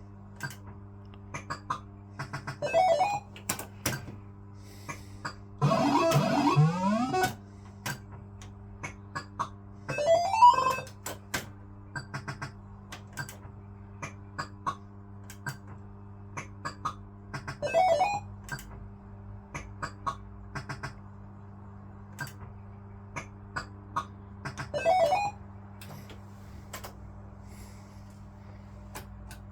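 Barcrest MPU3 Autoroute fruit machine's electronic sound effects: about five short rising bleep runs, spaced several seconds apart, with frequent clicks from the reels and buttons over a steady electrical hum.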